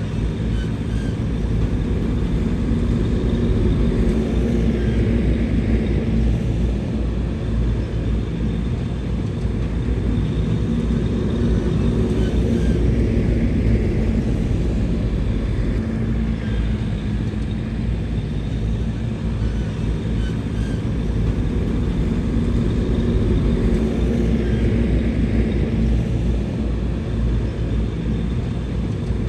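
Bulldozer's diesel engine running steadily, with slight swells in level every several seconds.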